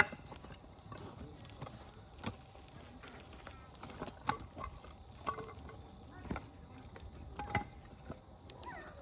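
Wood campfire crackling, with irregular sharp pops of burning firewood, the loudest right at the start and about two seconds in, over a steady high-pitched hum.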